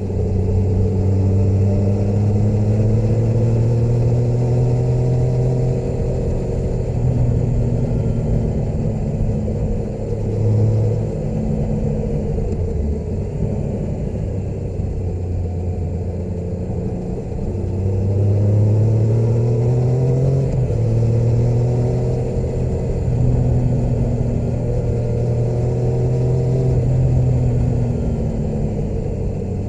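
Motorcycle engine running while riding. Its pitch climbs and falls as the throttle opens and closes, with a few sudden drops in pitch at gear changes.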